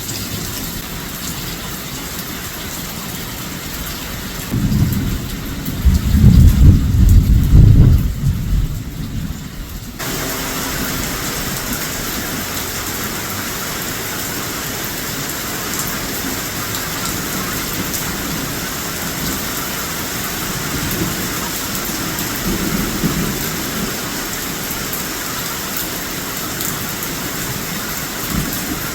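Heavy rain falling steadily during a storm, with a loud, deep rumble of thunder about five seconds in that lasts several seconds. About ten seconds in, the sound changes abruptly to a brighter, even rain hiss.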